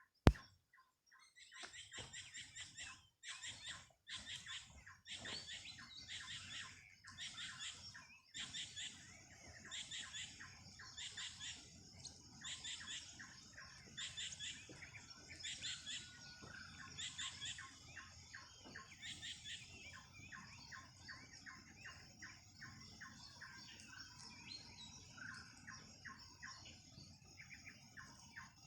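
Birds singing: a short high phrase repeated about once a second, changing to a faster run of short chirps about two-thirds of the way through.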